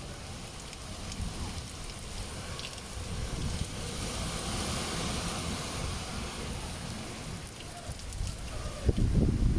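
Heavy rain falling in a storm, a steady hiss that swells and eases, with wind rumbling against the microphone that grows stronger near the end.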